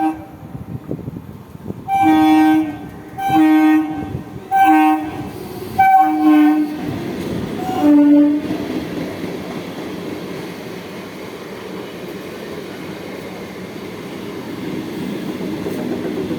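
Indian Railways train horn sounding about five short blasts in quick succession, then the steady rumble and clatter of the train running for the rest of the time.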